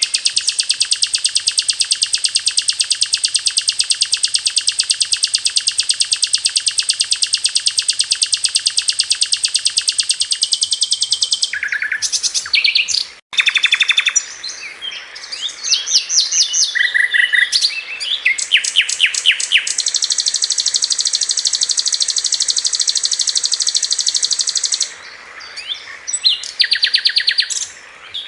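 Sikatan londo song as used for training songbirds: a long, very fast, even trill lasting about ten seconds (the 'tembakan', or rapid-fire burst), then a run of short, varied chirps and whistles. A second fast trill follows, lasting about five seconds.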